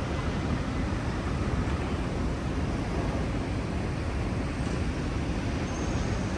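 Steady city street noise, mostly the low rumble of passing traffic.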